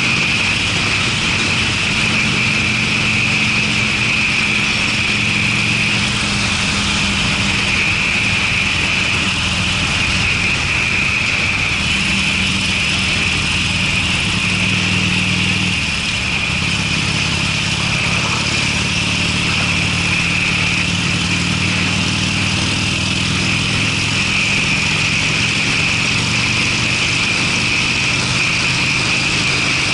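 Harley-Davidson Sportster 45-degree V-twin running steadily at cruising speed through Screamin' Eagle mufflers, a deep exhaust note with less of the dry crackle of a more open pipe. A steady hiss lies over it.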